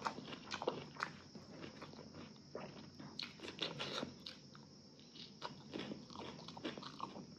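A person chewing and eating close to the microphone: irregular soft clicks and smacks of the mouth.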